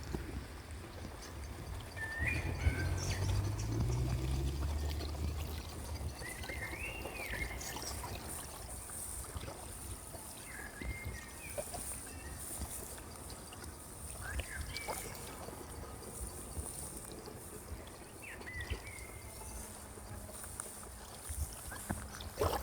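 Outdoor ambience with short bird calls every few seconds over a steady background hiss, and a low rumble in the first few seconds.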